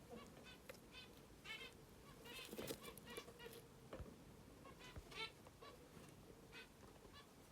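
Budgerigars chirping faintly in the nest: a string of short, high calls repeated every half second or so.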